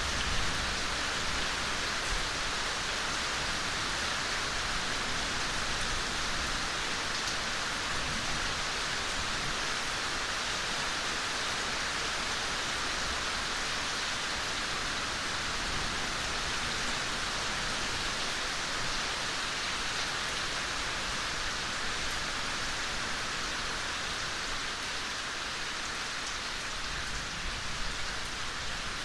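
Steady, gentle rainfall: an even hiss of rain with scattered drops pattering on surfaces.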